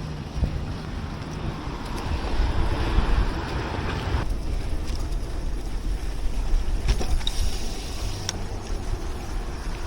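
Wind buffeting the microphone of a rider on a road bike, a steady low rush of noise. The higher hiss drops away about four seconds in, and a few faint clicks come later.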